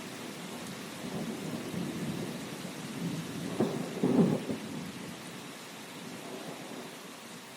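Thunderstorm: steady rain hiss under rolling thunder, with a sharp crack about three and a half seconds in followed by the loudest rumble, which then dies away, leaving the rain.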